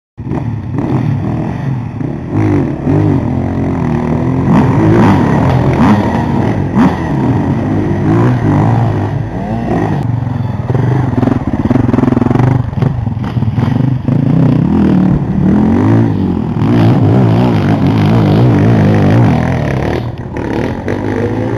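Off-road motorcycle engines revving hard, their pitch rising and falling again and again as the dirt bikes accelerate and shift along the track.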